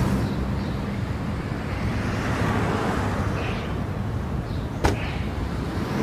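A car engine running steadily, with a single sharp click just before five seconds in.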